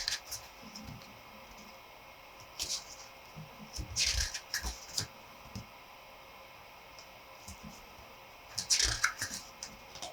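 Paper being handled: a photo book and its printed materials rustling and tapping in three short bursts a few seconds apart.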